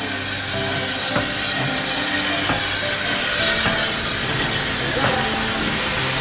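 Steam locomotive letting off steam: a loud, steady hiss that grows slightly louder, with a few sharp clicks.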